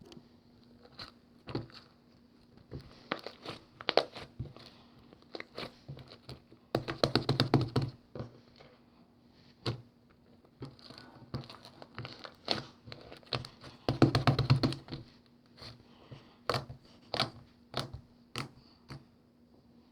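Hands playing with slime: pressing, squishing and pulling it, with sticky clicks and pops, and two bursts of rapid crackling about seven and fourteen seconds in.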